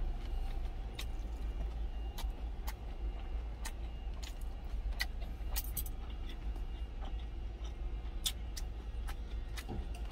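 A person chewing a mouthful of duck meat and kimchi, with scattered sharp clicks and clinks, over a steady low hum.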